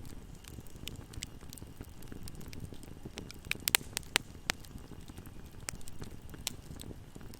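Wood fire burning in a fireplace: a low steady rumble of flames with scattered sharp crackles and pops, a quick cluster of louder snaps about halfway through.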